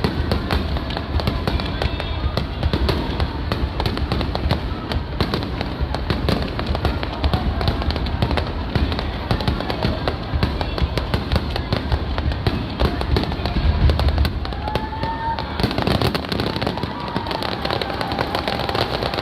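Aerial fireworks shells bursting in quick succession: continuous deep booms overlaid with dense crackling. A few gliding whistle-like tones come through about three-quarters of the way in.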